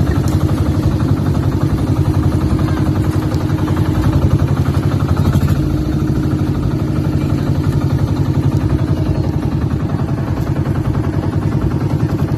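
Boat engine running steadily and loudly, with a fast, even firing beat.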